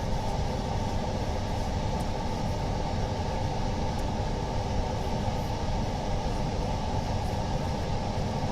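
Steady low machine hum with a faint held tone, unbroken throughout.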